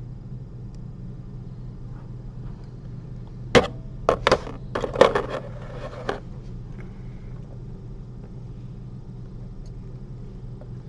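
A handful of sharp clicks and knocks bunched together between about three and a half and six seconds in, over a steady low hum.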